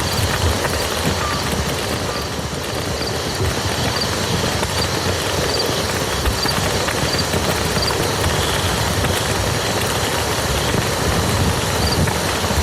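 Steady rain falling on a muddy field, a dense even patter. A faint high chirp repeats about once a second.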